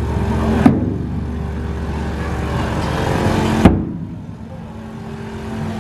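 Two single hard strikes on a large festival dō drum, about three seconds apart, over a steady low hum.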